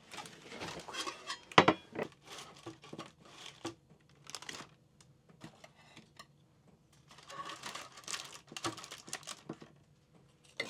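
Kitchen utensils and a pan clinking and scraping, with crinkling rustles, in two busy stretches; one sharp clatter about one and a half seconds in.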